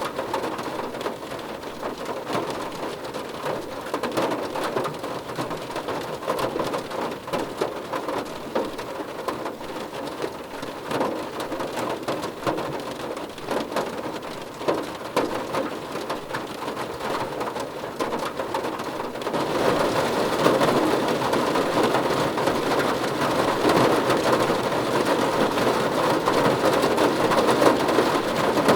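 Rain falling on a car roof: a dense, steady patter of drops on the metal, growing heavier and louder about two-thirds of the way through.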